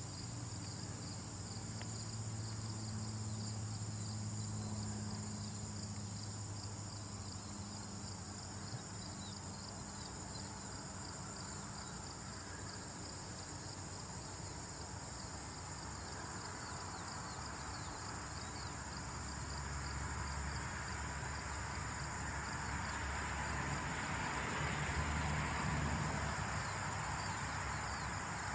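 Steady high-pitched insect chirring like a cricket chorus, over a low hum. A broad rustling hiss swells in the last third and is loudest near the end.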